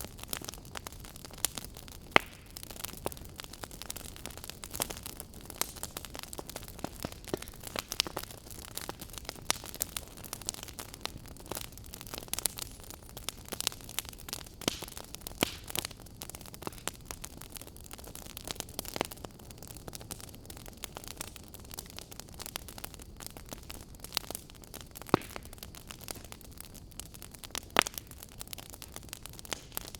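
Fire crackling: irregular sharp pops and snaps over a steady hiss, with a few louder pops scattered through.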